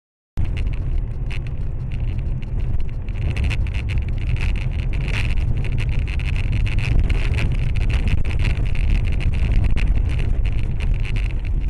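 Steady low rumble of a moving car's road and engine noise, picked up by a dash cam, with many small rattles and clicks. It cuts in abruptly just after the start.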